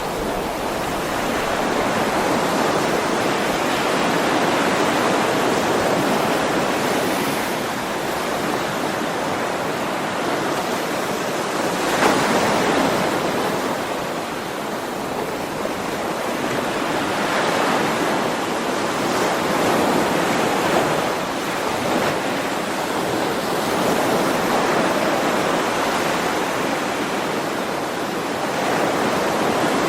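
Ocean waves washing in, a continuous surf hiss that swells and eases every few seconds, with one sharper break about twelve seconds in.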